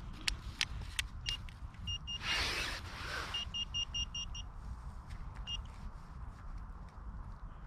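Metal detector beeping on a target: single high beeps, then a quick run of about six beeps. A second-long scraping rustle comes about two seconds in, with scattered clicks.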